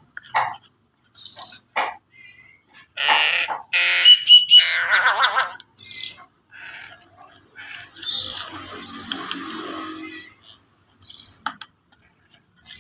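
Young crow giving repeated harsh, raspy begging calls as it is hand-fed, with short high chirps recurring every second or two between them.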